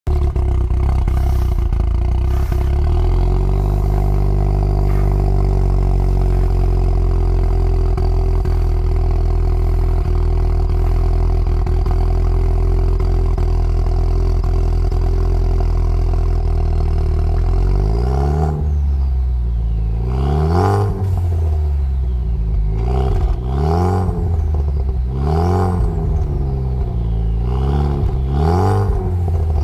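Ford Focus ST Mk3 with an aftermarket Milltek exhaust, idling steadily, the idle settling slightly lower over the first few seconds. From about two-thirds of the way in, the throttle is blipped repeatedly, about five or six revs rising and falling roughly every two seconds.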